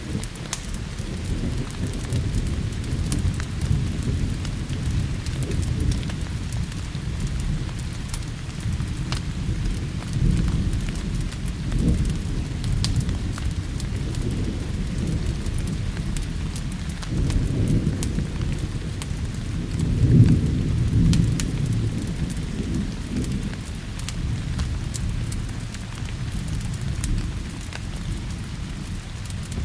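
Steady rain with low rolling thunder that swells and fades several times, loudest about two-thirds of the way through. Scattered sharp ticks sound over the hiss.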